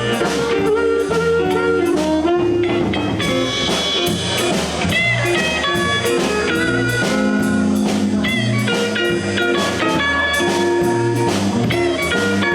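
Live blues band playing an instrumental break: guitar, bass and drums in a steady groove, with a lead line of bent, sliding notes over the top.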